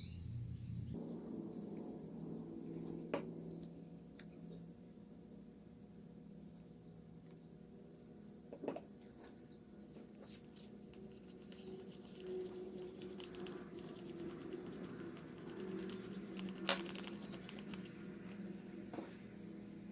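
Faint bird chirping in the background over a steady low hum, with a few light clicks and taps of small things being handled, the loudest about 3, 9 and 17 seconds in.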